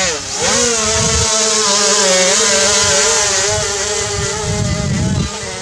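Brushless electric motors and propellers of a small RC VTOL airplane whining at speed, the pitch dipping at first and then holding fairly steady with slight wavering.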